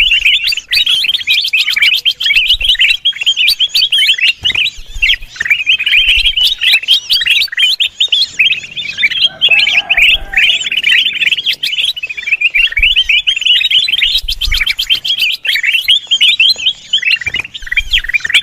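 Kutilang emas (golden bulbul) calling noisily without pause, a fast, busy stream of chirps and trills. This is the excited chatter used as a lure and mastering sound for songbirds.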